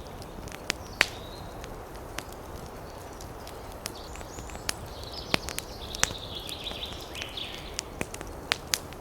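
Wood fire in a fireplace crackling: irregular sharp pops and snaps over a steady low rush of flames. A fluttering high hiss rises about halfway through and fades a few seconds later.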